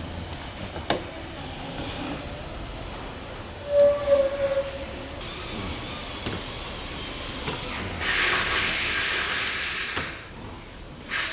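Workshop handling sounds: scattered clicks and knocks and a brief squeak about four seconds in, then a pressurised hiss for about two seconds, with a shorter hiss near the end.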